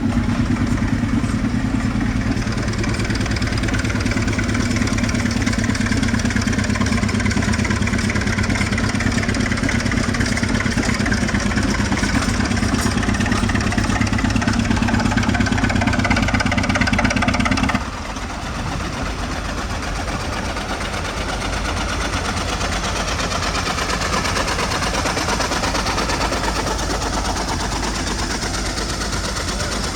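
Engine of an old air compressor running steadily. About two-thirds of the way through it suddenly drops in level and loses much of its low hum, then carries on.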